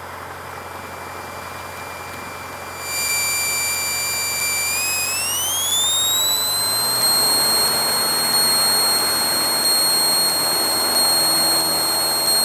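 Steady Cessna 152 cockpit noise with a thin high-pitched whistle that starts about three seconds in, rises in pitch over the next few seconds and then holds steady.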